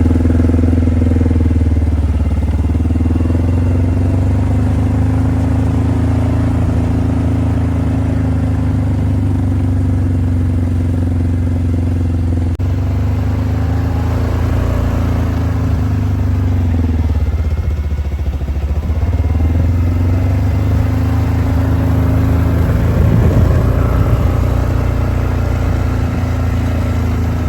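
Engine of the vehicle carrying a foliar sprayer running steadily as it drives across the field, its pitch sagging and picking back up about two-thirds of the way through.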